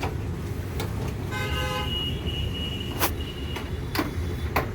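Road traffic rumbling steadily, with a vehicle horn tooting about a second in, its tone held for a couple of seconds. A few sharp clicks come through over the top.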